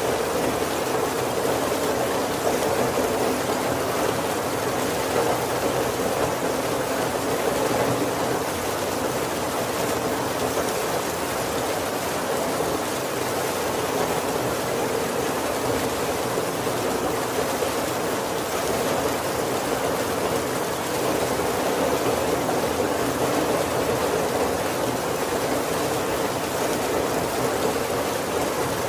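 Steady heavy rain falling on a roof, with no breaks and no thunder.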